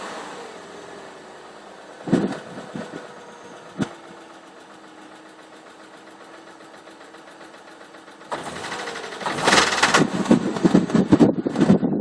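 BMW E36 316 four-cylinder engine running steadily with a couple of single knocks. About eight seconds in, a loud, irregular knocking rattle sets in and grows: the bad noise that shows once the engine is warm and goes away above about 2,500 rpm, which the owner puts down to low coolant.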